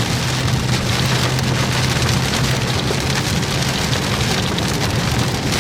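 Heavy rain falling on a car's windshield and roof, a dense steady patter heard from inside the cabin, over a steady low hum from the moving vehicle.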